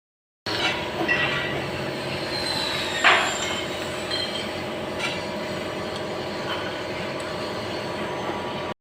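Steady mechanical running noise with a constant hum, and one brief loud sound about three seconds in.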